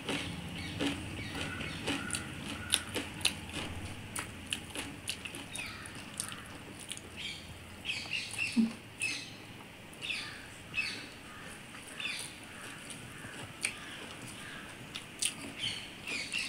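Close-up eating sounds: wet chewing and lip smacking from people eating rice and chicken curry by hand, a scatter of short, irregular clicks.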